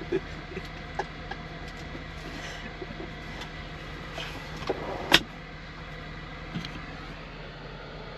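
Steady low hum of a vehicle cab with scattered small clicks and knocks; one sharp knock about five seconds in is the loudest.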